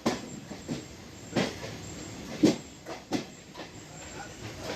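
A moving passenger train: a steady running rumble broken by about five sharp, unevenly spaced clacks as the wheels pass over rail joints.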